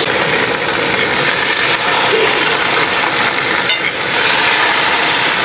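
Raw chicken pieces sizzling in hot oil with browned onions in a steel kadhai, turned with a metal spatula that briefly scrapes the pan. The sizzle is a steady, dense hiss.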